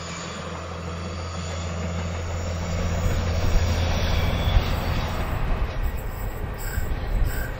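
A railcar's diesel engine drones steadily. About halfway through it gives way to a diesel-hauled freight train drawing closer, getting louder with the rumble and rattle of wheels and wagons, and a few short wheel squeals on the curve near the end.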